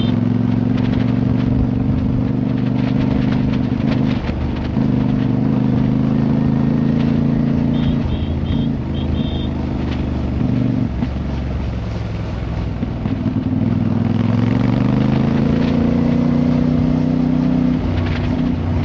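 Motorcycle engine running under way, its note holding steady and then climbing from about fourteen seconds in as it accelerates. A few short high beeps sound about eight seconds in.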